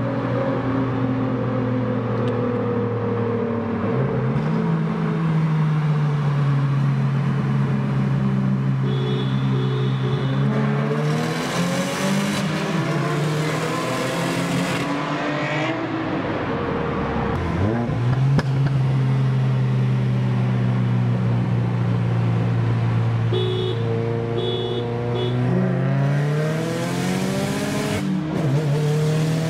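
Car engines running and revving: held at steady revs for several seconds at a time, then rising and falling in pitch, with a sharp drop and climb about midway and a few brief high squeals.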